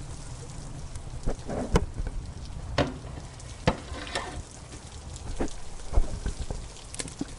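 Wood fire crackling in a fireplace, with a handful of sharp pops, the loudest near two seconds in and again about six seconds in. Underneath runs a steady rain hiss with a low rumble.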